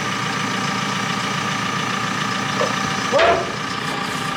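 Engine of a cabbed lifting machine idling steadily, with one brief louder sound about three seconds in.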